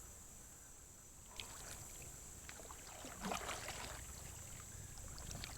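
Kayak paddling on a lake: faint splashes and knocks of the paddle in the water, loudest between about three and four seconds in.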